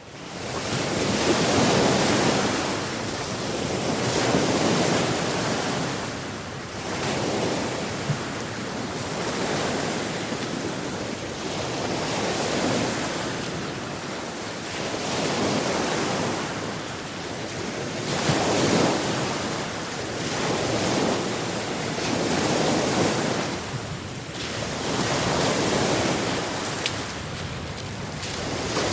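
Atlantic Ocean surf: waves breaking and washing ashore, swelling and fading every few seconds.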